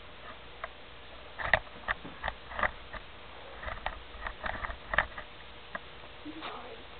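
Dog sniffing in short, irregular bursts, several quick sniffs in clusters through the middle, as it noses at a grasshopper on the ground.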